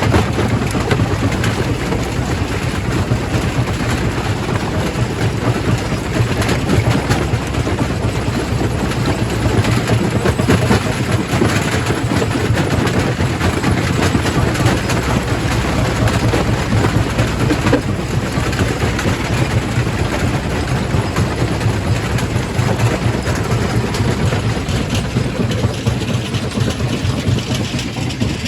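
Quarry primary rock crusher running, a steady low machine hum under a continuous dense clatter of rock being crushed.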